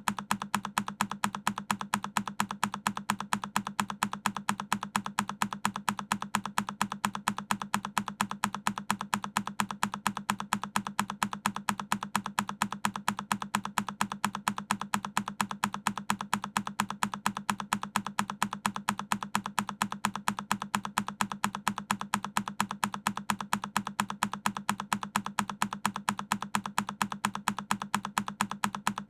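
A single key on a Keychron K10 mechanical keyboard pressed over and over, a sharp click repeating at an even pace several times a second.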